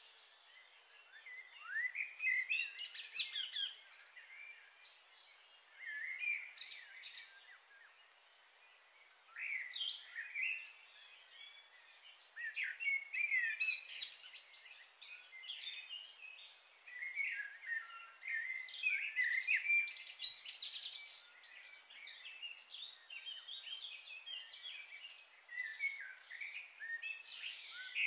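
Songbirds singing in phrases of quick chirps and warbles, with short pauses between phrases at first and near-continuous song in the second half.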